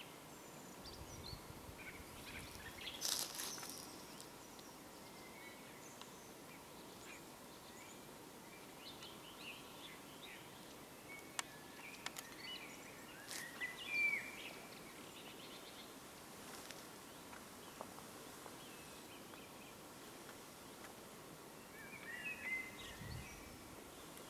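Wild birds singing and calling now and then over a steady outdoor background hiss: short chirps and song phrases, the loudest about two-thirds of the way through, with a couple of faint sharp clicks near the middle.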